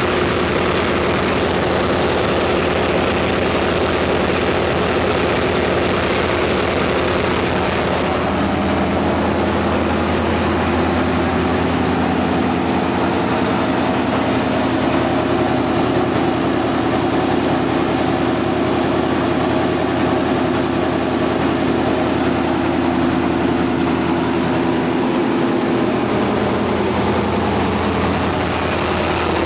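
Chevy 350 small-block V8 with throttle body injection running steadily at idle.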